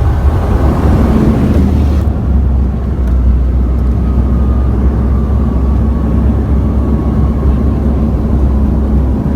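Cabin noise of a Bombardier Q400 turboprop airliner: a loud, steady low drone from its engines and propellers, with a faint whine slowly falling in pitch. About two seconds in, the hiss in the upper range drops away.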